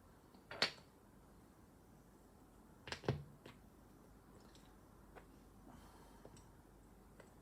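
Plastic Lego pieces being handled: a sharp click about half a second in, two quick clicks around three seconds, then a few faint ticks.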